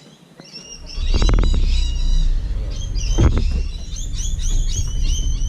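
Small birds chirping repeatedly. About a second in, a loud low rumble sets in and stays, drowning out everything but the chirps.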